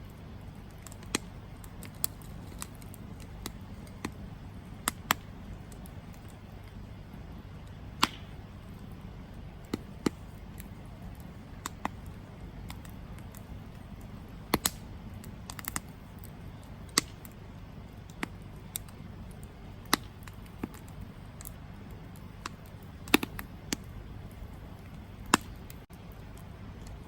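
Wood campfire crackling: irregular sharp pops and snaps from the burning logs, a few much louder than the rest, over a steady low rumble of the flames.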